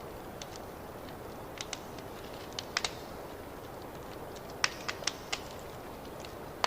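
Wood fire crackling: a steady low rush of flame with irregular sharp pops and snaps, a cluster of louder pops near the middle and again past the halfway mark.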